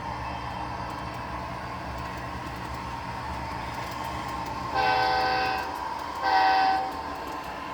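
HO-scale model train running steadily on the layout's track, and about two-thirds of the way through its locomotive sounds its horn in two short blasts.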